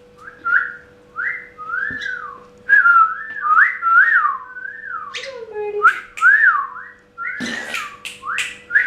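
Whistling: a string of short swooping notes, each rising then falling, about two a second, with a few sharp high bursts in the second half.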